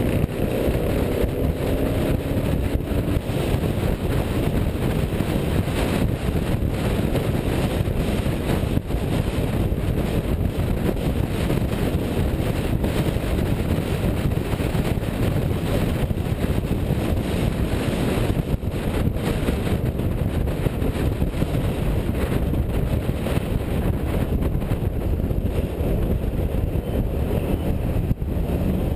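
Classic car driving, with a steady engine and road rumble and wind on the microphone; a rising engine note is heard in the first few seconds.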